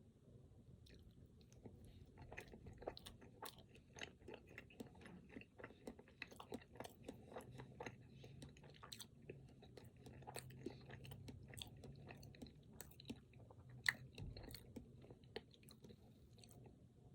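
Close-up chewing of a Pingüino, a chocolate-coated snack cake with a cream filling: a quick string of soft, wet mouth clicks and smacks, with one sharper click near the end.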